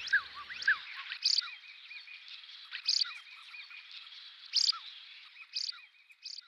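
Birds calling: a string of short, sharp calls, each sweeping down in pitch, several a second at first and then about one a second, over a faint high twittering.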